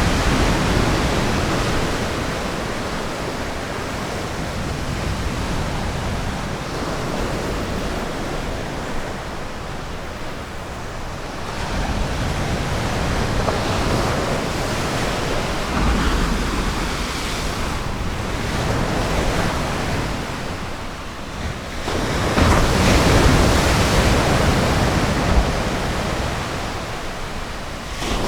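Ocean surf washing onto a beach: a steady rush of breaking waves that swells and ebbs, with a louder wave breaking near 16 s and another about 22 s in, and some wind on the microphone.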